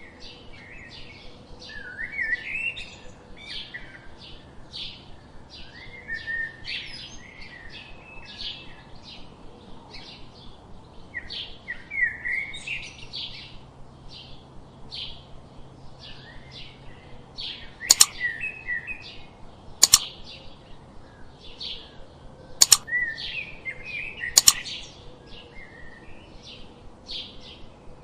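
Small songbirds chirping rapidly, short high notes about two or three a second, with warbling twittering phrases mixed in. Four sharp clicks, louder than the birds, fall in the second half.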